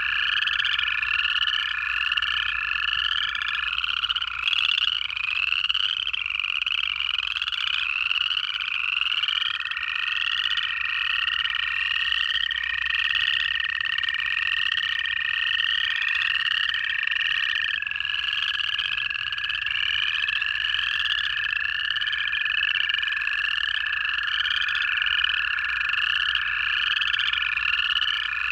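Pond chorus of upland chorus frogs, many overlapping rising trills repeating over and over. Under them, long, even trills of American toads, several toads at slightly different pitches, each held for several seconds and overlapping.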